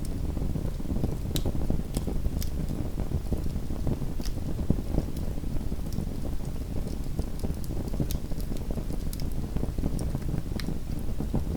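Small wood fire burning in a fireplace: a steady low rumble of the flames with sharp, irregular crackles and pops.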